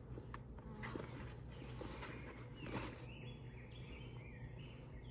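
Honeybee colony humming in an open hive, a faint steady drone, with a few light rustles.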